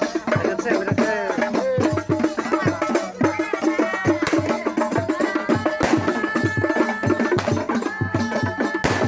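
Sholawat sung to a steady, rhythmic percussion accompaniment.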